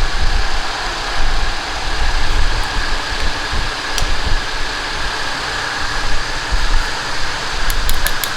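Steady mechanical running noise with a low rumble and a thin high tone, broken by a single sharp click about four seconds in and a few quick ticks near the end.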